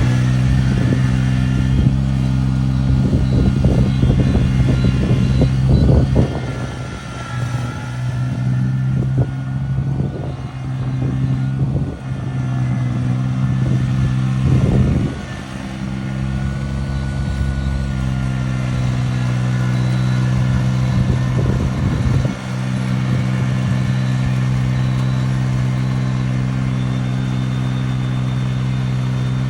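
Rice transplanter's diesel engine running at a steady pitch, with irregular knocks and rattles and a dip in level in the first half.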